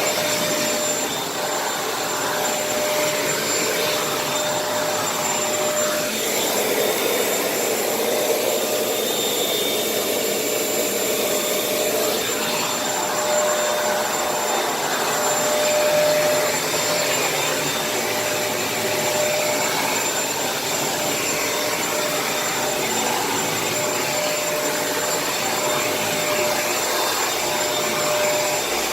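Kenmore vacuum cleaner running steadily, a continuous suction rush with a steady motor whine, its sound shifting a little a few times.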